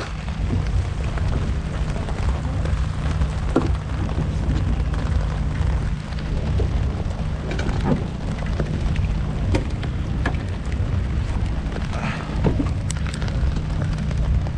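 Steady rain with scattered sharper drop ticks over a constant low rumble.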